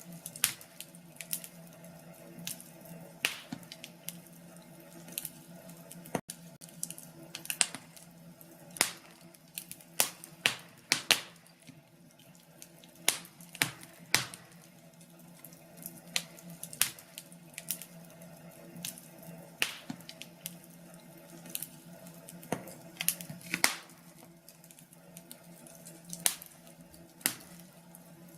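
Wood fire crackling in a fireplace: irregular sharp pops and snaps, several a second at times, over a steady low background.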